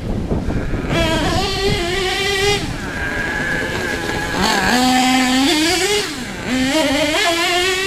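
HPI Savage SS nitro RC truck's small glow engine running and revving up and down, its pitch stepping and gliding as the throttle changes, with a dip near the middle and another about six seconds in. The tuning sounds a little lean.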